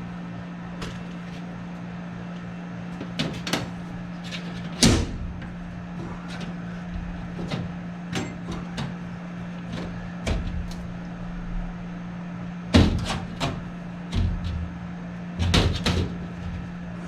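Scattered knocks, clunks and clatter of hands-on work with tools and parts around a furnace, the loudest about five seconds in, thirteen seconds in and a cluster near the end, over a steady low hum.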